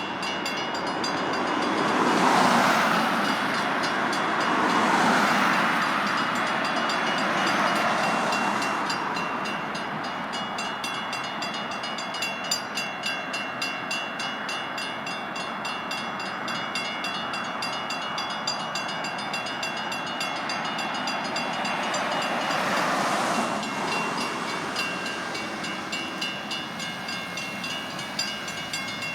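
Freight train passing over a road grade crossing. The train's noise swells loudest in the first few seconds and again around 23 s. Through the second half the wheels clack over the crossing in a steady rhythm, about one clack a second.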